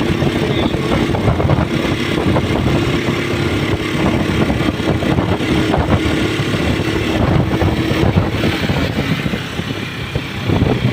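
Motorcycle engine running while riding, with a dense rushing noise throughout. A steady droning tone runs underneath and stops about seven seconds in.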